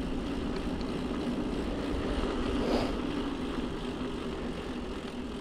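Riding noise from a bicycle on the road: wind rumbling on the microphone and a steady droning tyre hum, swelling briefly near the middle. The e-bike's motor is not switched on.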